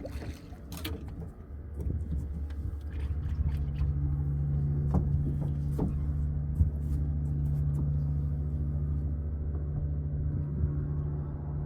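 A motor running at a steady speed, a low even hum that comes in about two seconds in, with a few light knocks over it.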